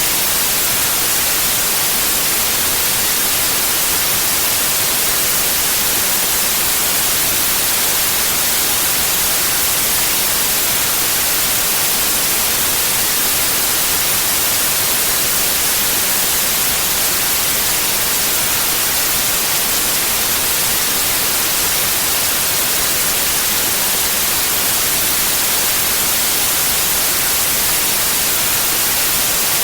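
Steady white noise: an even, unchanging hiss, strongest in the high frequencies, played as a focus aid.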